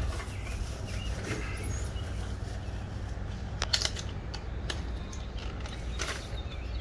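A few light, sharp clicks and taps of hand tools and a spark plug being handled in an engine bay, over a steady low outdoor rumble.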